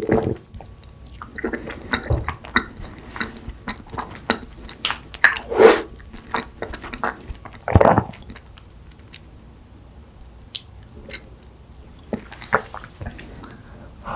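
Close-miked chewing of soft cake: wet mouth clicks and smacks, with louder bursts about five to six seconds in and again near eight seconds, then lighter clicking.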